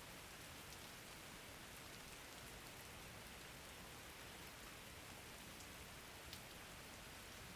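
Faint steady rain falling, an even hiss with scattered drop ticks.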